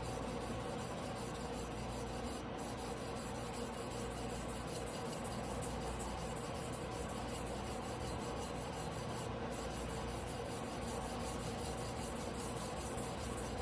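A carbon-steel yanagiba blade being hand-sharpened on a whetstone: a steady scraping rub of steel on stone.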